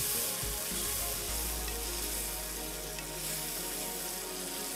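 Bottle gourd cubes sizzling in hot oil and spice masala in a pan as they are stirred in, a steady frying hiss.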